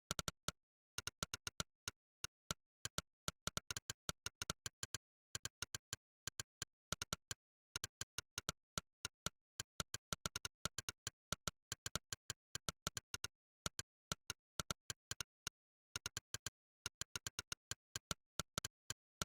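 Monkeytype's "click" keypress sound effect: a short, sharp synthetic click for every keystroke, coming in quick runs of several a second with short gaps between them, over dead silence.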